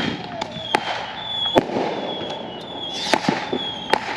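Fireworks going off: sharp bangs and pops at irregular intervals, several close together about three seconds in, over a steady hiss with a thin high whistle coming and going.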